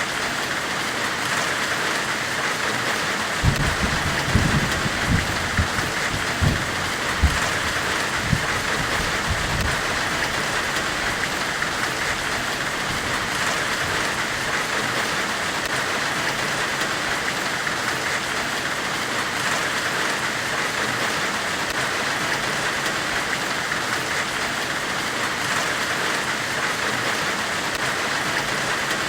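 Steady forge hiss: an even, rain-like sizzling noise, strongest in the upper middle range, with a cluster of low dull thumps from about three and a half to ten seconds in.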